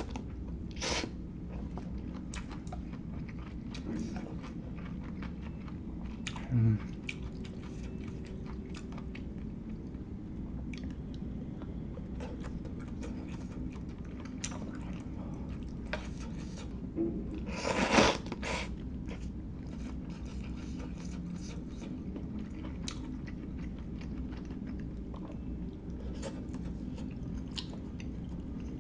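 A person chewing instant hot pot food close to the microphone, with scattered soft mouth clicks and a few louder breathy bursts, the loudest about eighteen seconds in.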